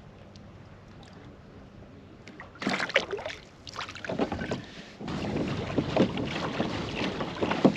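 Water splashing and sloshing against a kayak. It is faint at first, with loud splashes starting about two and a half seconds in, then a steady rushing wash from about halfway through.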